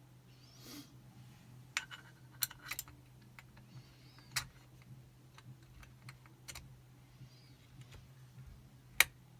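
Irregular sharp metallic clicks and ticks of a tension tool and picking wire working inside a Chubb Detector five-lever lock, turning it to move the bolt. The loudest click comes near the end.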